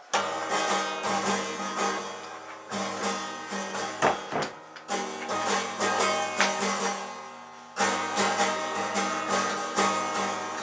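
A child strumming a left-handed guitar: repeated strums with the strings ringing on, and harder fresh strums about every two to three seconds.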